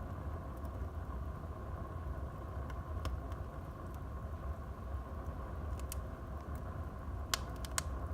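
Wood fire burning in a fireplace: a steady low rumble of the flames with scattered sharp crackles from the wood, two of them close together near the end.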